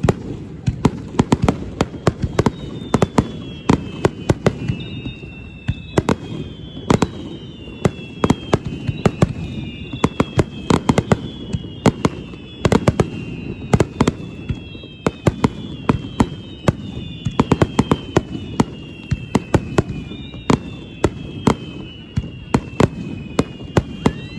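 Fireworks display: rapid, irregular bangs of shells bursting over a continuous low rumble, with repeated whistles that glide downward in pitch, overlapping one another from a few seconds in.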